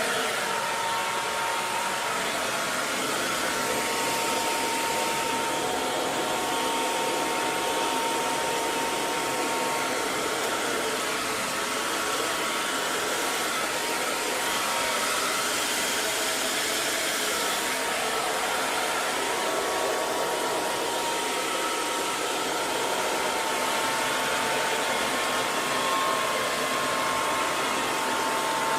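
Hair dryer running steadily: an even rush of blown air with a faint motor whine near 1 kHz that holds a steady pitch throughout.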